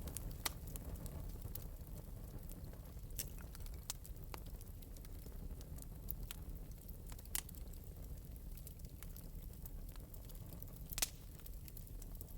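Fire in an open metal fireplace crackling softly: scattered sharp pops over a low, steady rumble, the loudest pop near the end.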